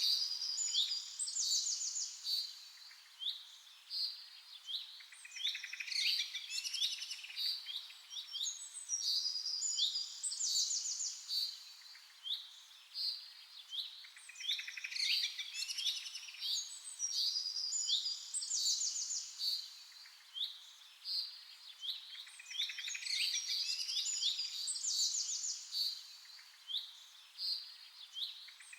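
Songbirds singing, with quick high chirps and fast trills coming in repeated bouts a few seconds apart and short quieter gaps between.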